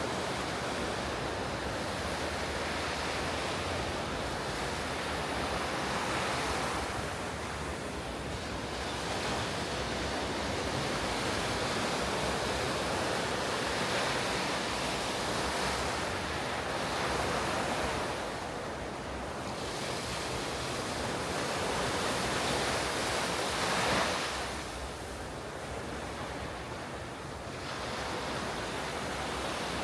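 Ocean surf breaking on a beach, a continuous wash of noise that swells with each breaking wave and eases between them, the biggest surge about three-quarters of the way through. Wind buffets the microphone at times.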